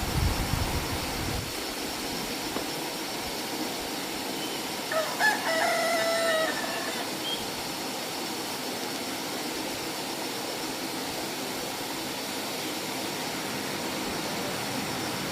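A rooster crows once, about five seconds in, a single call lasting about a second and a half, over a steady background hiss. A low rumble sounds briefly at the start.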